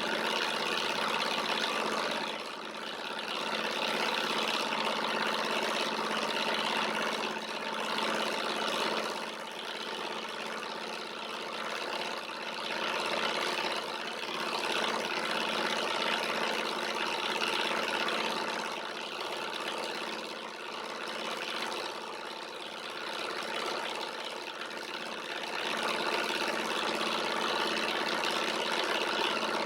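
Alpha-type Stirling engine running steadily while driving a small generator: a continuous mechanical whirr with a steady hum, which dips briefly in loudness now and then.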